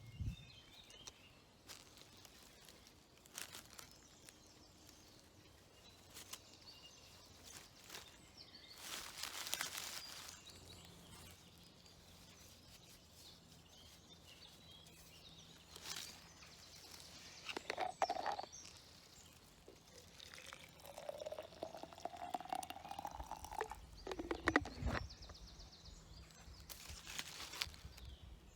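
Rustling and small knocks of tea things being handled, with water poured into a cup near the end, the pitch rising as it fills.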